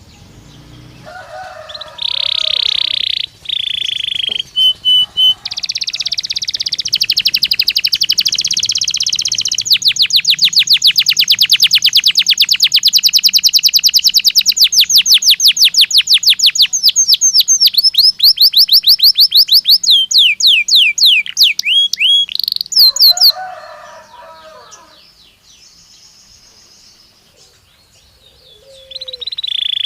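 Belgian canary singing: long trills and rolls, with a fast run of repeated notes through the middle and then a few sweeping notes. Lower chattering calls come in between. The song stops for a few seconds near the end and starts again just before it closes. This is canary song played as a stimulus to prompt canaries to sing.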